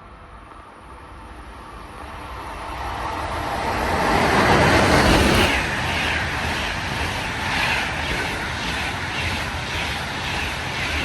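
A train passing at speed: a rushing sound that builds to its loudest about four to five seconds in, then carries on as a rhythmic clatter of wheels repeating roughly every three-quarters of a second as the cars go by.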